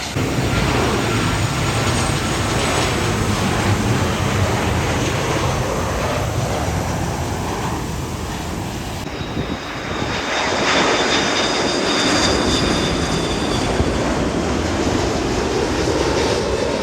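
Airplane engines of a landing aircraft: a loud, steady rush of engine noise, with a thin high whine joining in about ten seconds in.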